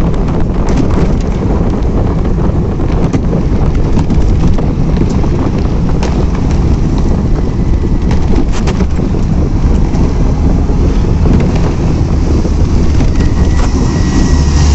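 Wind buffeting the microphone: a loud, steady, low rumble with scattered clicks and knocks.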